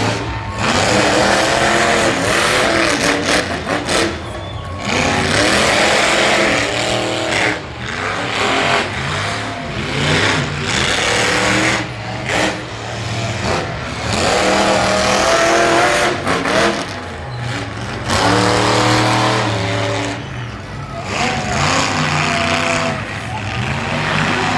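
Monster truck engine revving hard again and again, its pitch climbing and falling with each burst of throttle and dropping away briefly between bursts.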